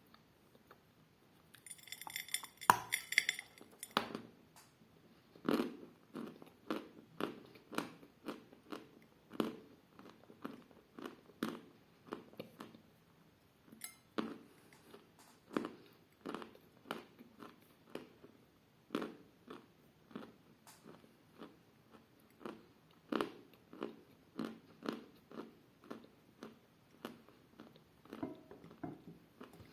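A person chewing chalk close to the microphone: a steady run of short, dull crunches, about one to two a second. A brief crinkling rustle comes about two seconds in, just before the chewing starts.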